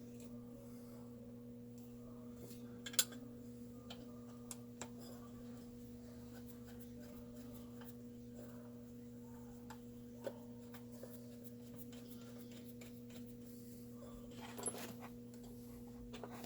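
Scattered light clicks and taps of small parts being handled, the sharpest about three seconds in and a few more near the end, over a steady low electrical hum.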